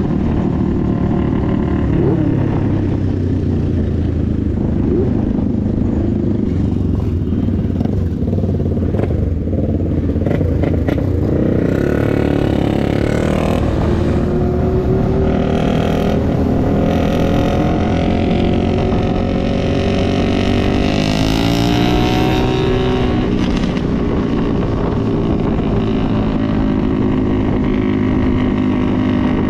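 Motorcycle engine running steadily while riding. Its pitch rises about twenty seconds in as it speeds up.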